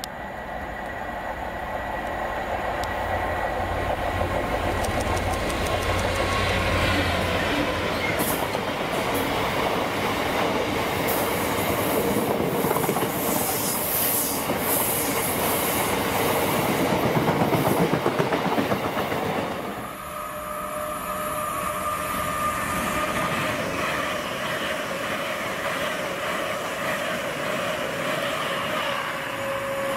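GBRf Class 66 diesel locomotive, its two-stroke EMD engine droning low, hauling a long train of hopper wagons past. The wagon wheels rumble and squeal high on the curve, loudest about two-thirds of the way through. After a cut at about twenty seconds, an LNER Azuma train passes under electric power with a steady whine.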